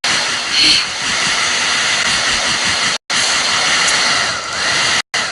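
Loud, steady rushing hiss, like blowing air, that cuts out abruptly twice for a split second.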